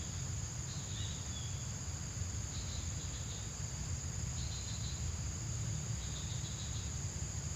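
Insects chirring: a steady high, unbroken drone with shorter chirps recurring about every second or two, over a low steady rumble.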